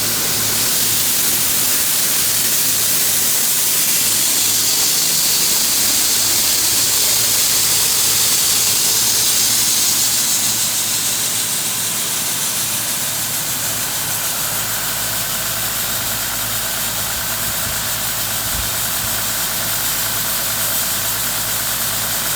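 Grain-handling machinery running steadily at a grain bin, with a strong high hiss over a low, evenly pulsing engine hum.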